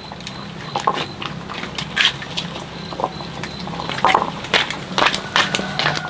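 A pet animal eating, with irregular short chewing and biting sounds.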